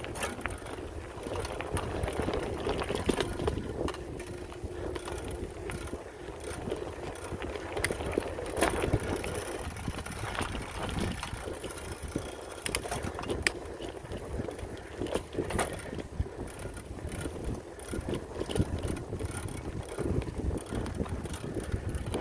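Mountain bike ridden over a rough dirt trail: the frame and chain rattle, with frequent sharp clicks and knocks over a low, steady rumble.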